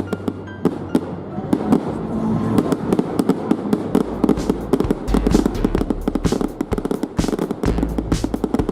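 Fireworks crackling and popping in rapid, irregular succession, with a deep low rumble underneath from about four seconds in.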